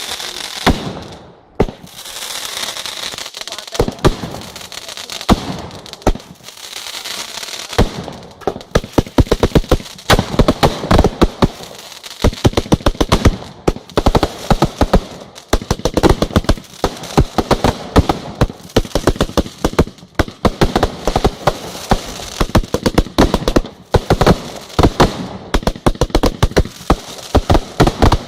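Aerial fireworks display: a hissing, crackling stretch at first, then from about eight seconds in a dense, rapid volley of bangs and crackles that keeps going with only brief lulls.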